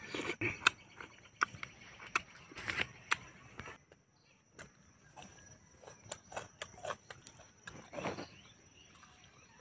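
Mouth sounds of a man eating cooked pork with his fingers: short wet chewing clicks and lip smacks scattered through, the loudest in the first three seconds, and a louder bite and chew about eight seconds in.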